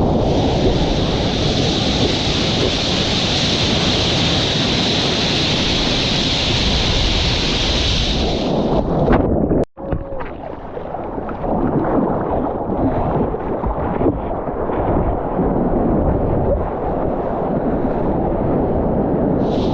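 Wind buffeting a GoPro microphone over rough lake surf: a loud, steady rushing with a strong hiss for the first half. About ten seconds in the sound cuts out sharply for a moment, then a duller churn of waves and water with less hiss continues.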